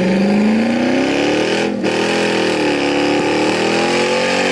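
Truck engine running at high revs, its pitch climbing, dipping and climbing again, as the throttle is held and varied.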